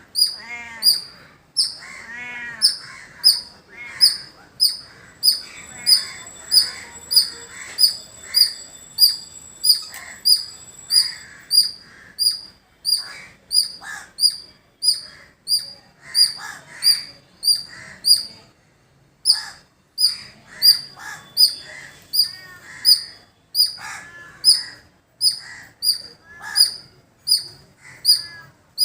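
A squirrel calling with a long run of sharp, high-pitched chips, about one and a half a second, pausing briefly about two-thirds of the way through. Other birds call in the background, with crows among them.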